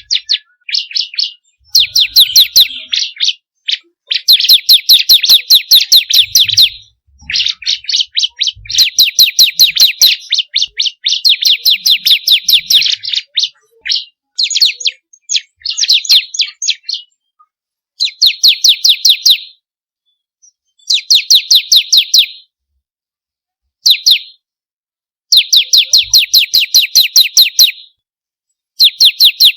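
Bar-winged prinia (ciblek kristal) singing: bouts of one to two seconds of rapid, evenly repeated high chirping notes, separated by short pauses.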